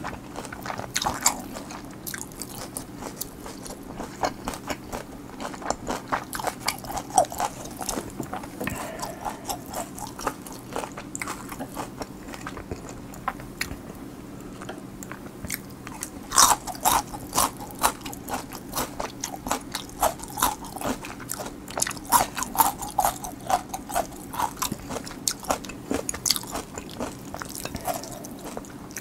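A person chewing and crunching food with the mouth full: sharp crunchy bites and wet mouth clicks in quick flurries, busiest in the second half.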